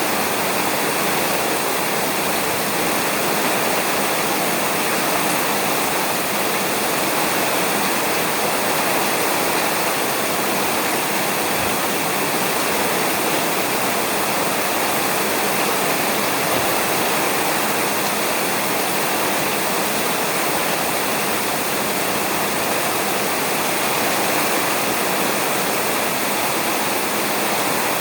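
Steady heavy rain falling on a roof, an even, unbroken hiss of drops with no thunder.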